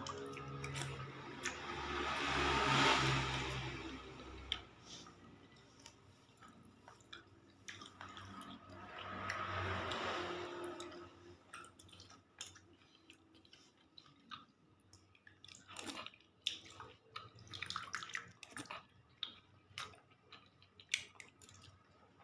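Spoon working in a bowl of thick mung bean and black sticky rice porridge: soft wet stirring and squishing, then a run of small clicks and taps in the second half.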